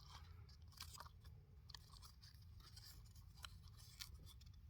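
Near silence with a few faint, scattered small clicks and rustles, typical of paper being handled as a logbook's pages are looked through.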